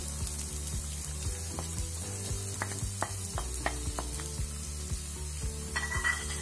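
Chopped onions sizzling in hot oil in a kadai, just tipped in for sautéing, a steady frying hiss with a few light clicks in the middle.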